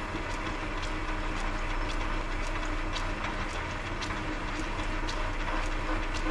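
Early-1940s belt-driven South Bend lathe running with a steady low hum and a regular ticking about twice a second.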